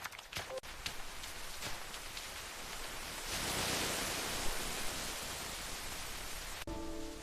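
Steady rain hiss that swells louder for a couple of seconds in the middle, then drops back abruptly near the end.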